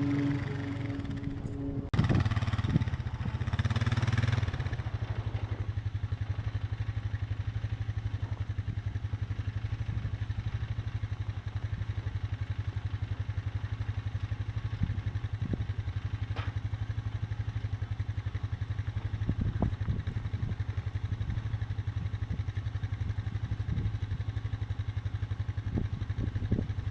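An engine running steadily with a fast, even pulse, and a louder rush of noise during the first few seconds.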